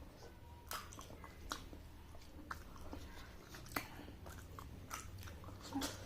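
Close-up eating sounds: chewing with sticky mouth smacks and clicks, irregular, roughly one a second.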